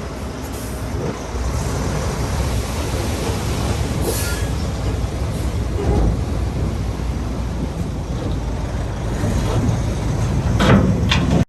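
Shantui bulldozer's diesel engine running steadily under load, with brief sharp metallic squeals and clanks near the end.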